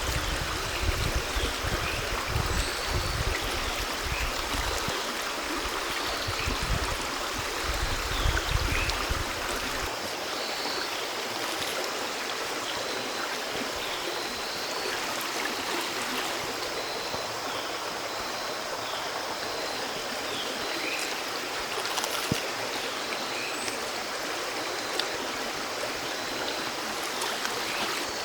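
River water running steadily, an even rushing hiss. Low rumbling comes and goes through the first ten seconds, and faint short high chirps repeat throughout.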